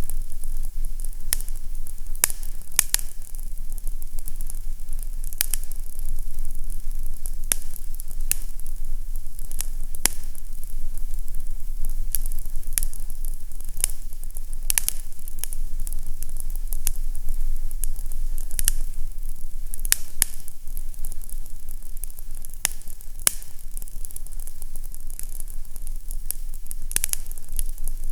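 Fireplace fire crackling: irregular sharp pops and crackles, roughly one a second, over a steady low rumble and a soft hiss.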